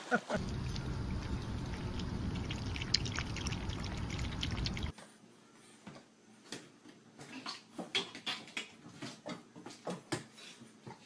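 Running or pouring water for about five seconds, cut off suddenly, followed by scattered light clicks and taps.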